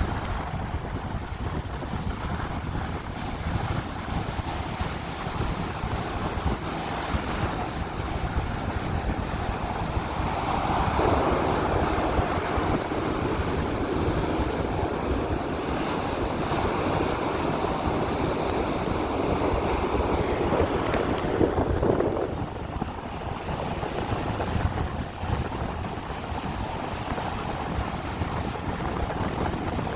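Ocean surf washing in steadily, with wind buffeting the microphone. A louder wave surge builds about a third of the way in and dies away about two-thirds through.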